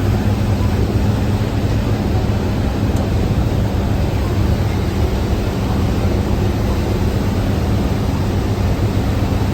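Thames Clipper passenger boat's engines droning steadily under way, a low hum under a constant rush of noise.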